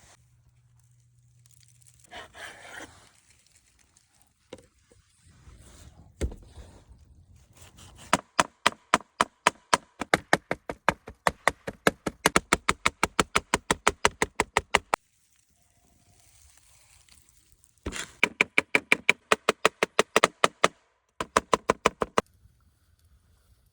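Sharp knocks in quick even runs of about five a second, coming in three bursts: a long one about eight seconds in, then two shorter ones near the end. A single thud comes a few seconds before the first run.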